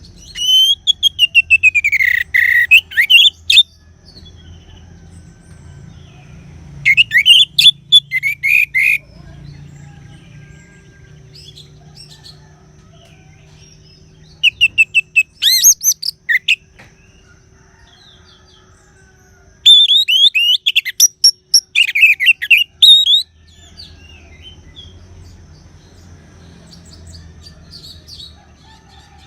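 Orange-headed thrush (anis merah) singing: four loud phrases of rapid, varied whistled notes, the first opening with a falling glide, separated by pauses of several seconds.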